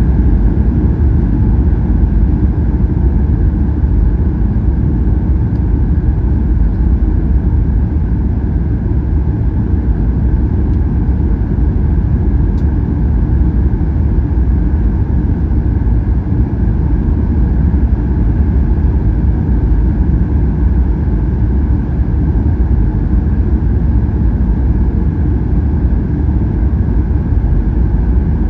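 Boeing 737-800 cabin noise: the steady low rumble of the engines and airflow through the fuselage, with a steady hum higher up.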